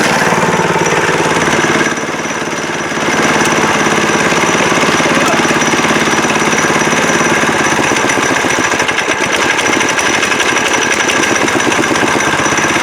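Single-cylinder Honda-clone engine on a minibike with a CVT torque converter, running hard under throttle while being ridden. It eases off briefly about two seconds in, then picks back up and holds.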